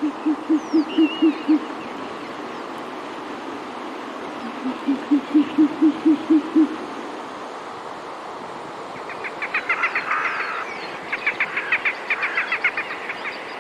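Bird calling: two runs of fast, evenly spaced low hoots, each about two seconds long, then a higher, rapid chattering trill over the last few seconds.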